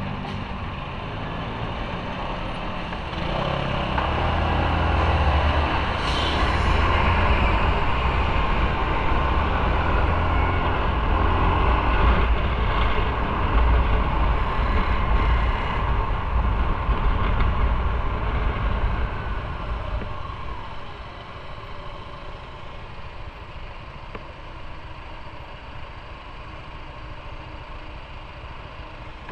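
Motorcycle on the move, its engine and road noise rising over the first few seconds and staying loud, then falling off about twenty seconds in as the bike slows, and staying quieter after that.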